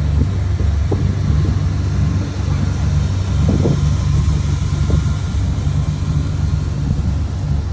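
A car engine idling steadily: a low, even drone.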